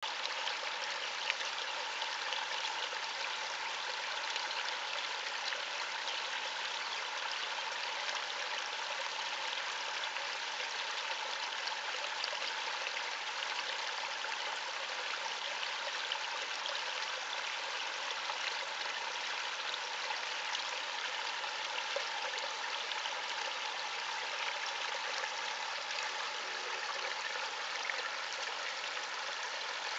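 Garden waterfall babbling: water splashing and running steadily.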